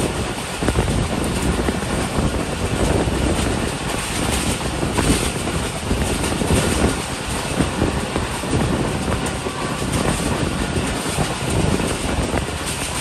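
Passenger train running along the track: a steady loud rumble and rush of wheels on rails, with scattered sharp clicks.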